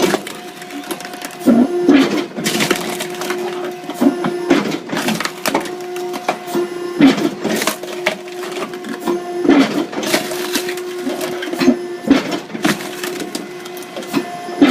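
Hydraulic firewood splitter running: a steady pump hum, broken about every two and a half seconds by wood cracking and splintering as each piece is split.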